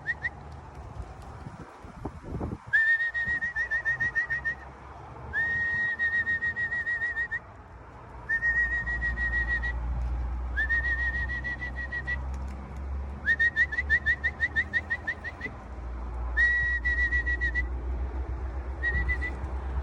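A high trilling whistle sounded in about seven short blasts a couple of seconds apart, each starting with a quick upward slide and then holding one fluttering pitch: a fancier's call to bring racing pigeons down to the loft.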